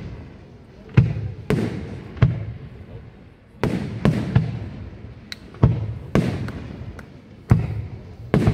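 Aerial firework shells bursting in a display: about ten sharp bangs come at irregular intervals, roughly one a second, some in quick pairs. Each bang trails off in a rolling echo.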